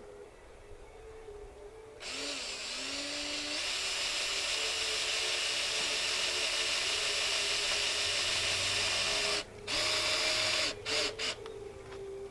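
Power drill driving a screw: the motor runs steadily for about seven seconds, stops briefly, then gives a few short trigger bursts as the screw is snugged down.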